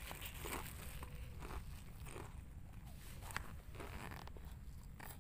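Someone biting and chewing a crispy kerupuk cracker close to the microphone: a string of irregular, faint crisp crunches, over a low rumble of wind on the microphone.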